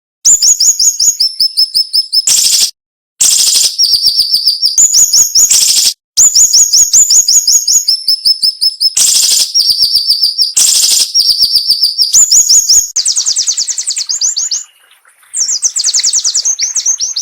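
Siri-siri bird singing: fast runs of sharp, high chirping notes, about ten a second, in phrases broken by brief pauses. The song comes close-up and loud, with a short lull about three quarters of the way through.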